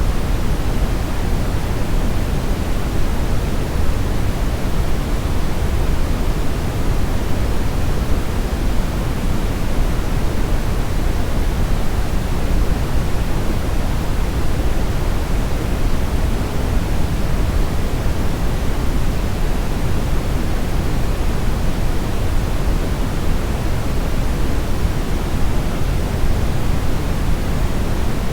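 Brown noise: a steady, even rumbling hiss weighted toward the low end, with no changes or separate events.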